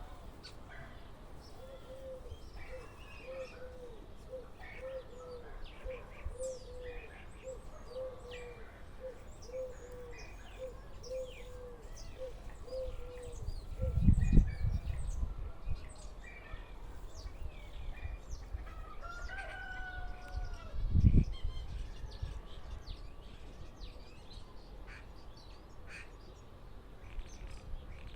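A bird calling a long run of short, evenly spaced notes, about one and a half a second, for the first half, with small chirps throughout and a longer gliding call later on. Two loud dull thumps come about halfway through and again near the end.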